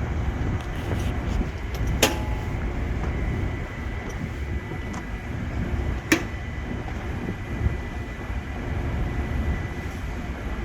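Steady low rumble of heavy machinery running, with a faint steady high whine and two sharp knocks, about two and six seconds in.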